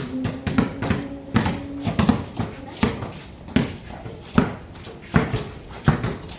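A basketball bouncing on a hard court in irregular thumps, about one or two a second and slowing toward the end. A steady low hum runs underneath for the first two seconds.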